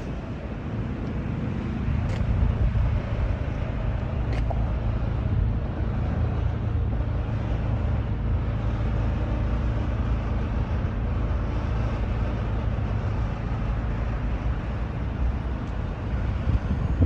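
Scania R420 truck's diesel engine running with a steady low drone, growing louder about two seconds in and then holding steady.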